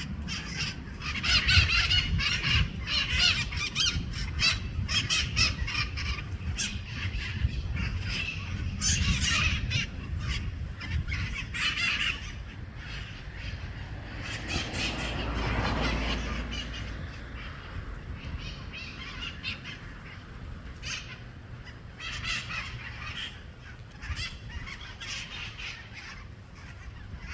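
A flock of parrots squawking and screeching in many overlapping harsh calls, busiest in the first twelve seconds and again in the last third. Midway, a low rumble swells up for a few seconds under the calls.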